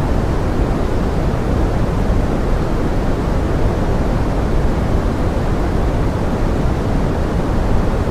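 Forest rain rendered as pink noise: a steady, even rushing hiss, heaviest in the low end and thinning out in the treble, with no single drops standing out.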